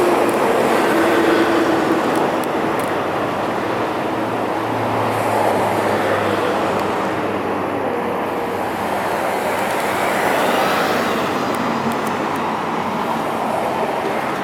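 Light rail train running past on the tracks: a steady wheel-on-rail noise with a few faint held tones over it.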